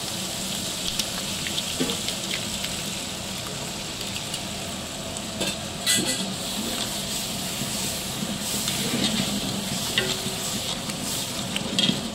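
Masala sizzling in a large metal pot as curd is mixed in and a ladle stirs and scrapes through it, with a few sharp clacks of the ladle against the pot.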